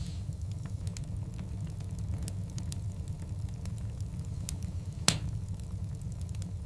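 Wood fire burning with a steady low rumble and scattered sharp crackles and pops from the logs, one loud pop about five seconds in.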